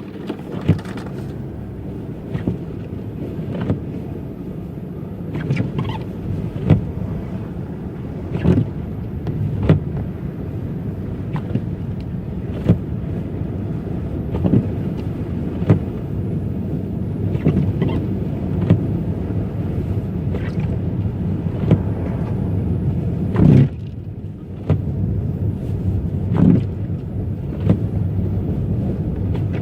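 Car driving on a rough road, heard from inside: a steady low rumble of tyres and engine with irregular knocks and thuds as the car jolts over bumps, the loudest about three-quarters of the way through.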